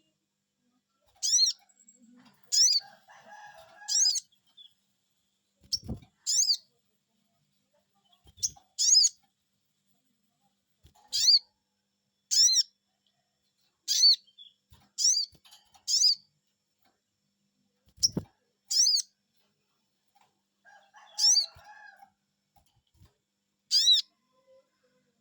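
Sogon bird calling, short high 'cuiit' notes repeated about once a second, some in quick pairs, as a lure call to draw a response from another sogon. Two dull low thumps come in, about six seconds in and again near eighteen seconds.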